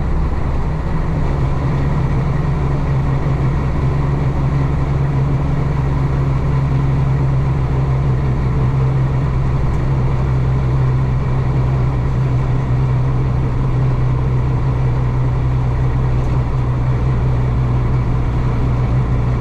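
Isuzu DA640 six-cylinder diesel of a 1966 Isuzu BXD30 bonnet bus running under way with a steady drone. Its pitch drops slightly about a second in, then holds.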